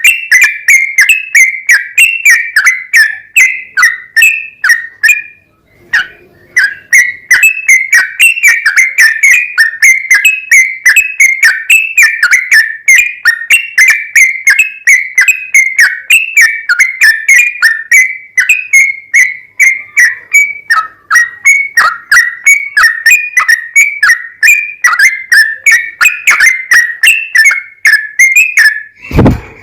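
Yellow-vented bulbul (trucukan) singing a long, rapid chattering run of short bubbly notes, several a second, pausing briefly about six seconds in.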